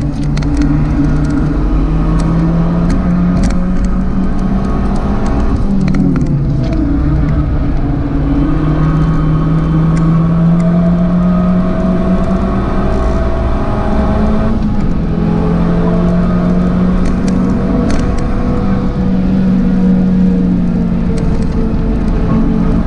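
Tuned Abarth 595's turbocharged 1.4-litre four-cylinder engine pulling hard at high revs on track, its note climbing and falling as the car accelerates, with brief pitch dips about six and fifteen seconds in as the revs drop.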